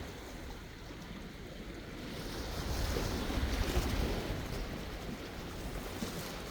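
Sea waves washing ashore, one wave swelling up about two seconds in and easing off again, with a low rumble of wind on the microphone.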